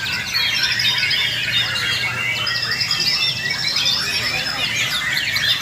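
Several white-rumped shamas (murai batu) singing at once: a dense, overlapping stream of rapid whistles, trills and rattling chatter, with no break.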